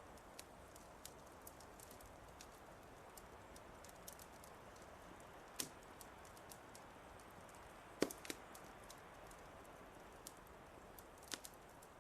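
Wood fire crackling: a soft steady hiss with frequent small crackles and a few louder pops, the loudest about eight seconds in.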